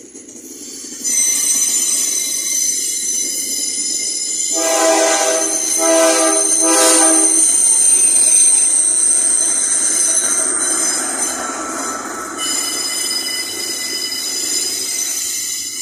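Loaded iron-ore freight train rolling by, its steel wheels squealing on the rails in several steady high-pitched tones starting about a second in. A diesel locomotive horn sounds for about three seconds near the middle, broken twice briefly.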